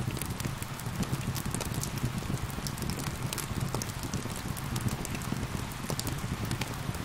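Wood fire crackling with frequent sharp pops and snaps over a steady hiss of gentle rain and a low rumble from the fire.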